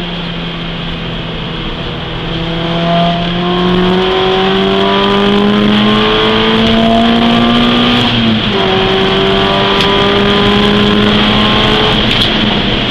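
Peugeot 206 S16's 2.0-litre 16-valve four-cylinder engine under hard acceleration, heard from inside the cabin. Its pitch climbs for about eight seconds, drops sharply at an upshift, then climbs slowly again over a steady hiss of wind and road noise.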